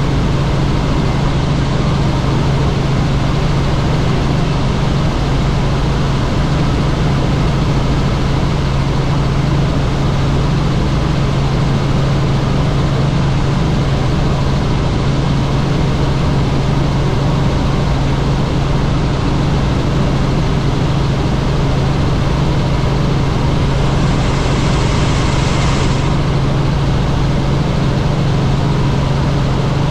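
Helicopter in flight, its engine and rotor giving a steady, loud low hum with constant noise over it. Near the end there is a brief rise in hiss for about two seconds.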